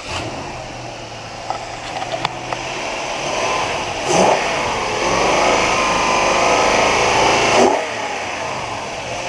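Toyota Sequoia 4.7-litre V8 (2UZ-FE) idling with a few light clicks, then revved up about four seconds in and held higher for about three and a half seconds before dropping back to idle.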